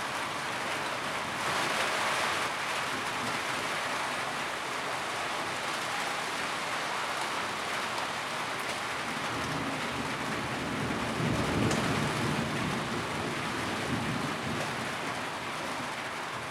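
Steady rain drumming on a tin roof, with a brief swell in intensity about two seconds in and a low rumble a little past the middle.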